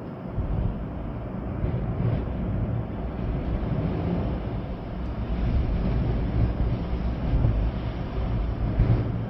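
Storm wind gusting hard, with rain, and the wind buffeting the microphone with a deep rumble that surges and eases; the strongest gust comes near the end.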